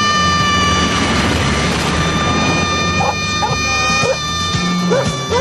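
Sustained musical tones over a low hum. From about three seconds in, a dog barks and yips several times in quick succession.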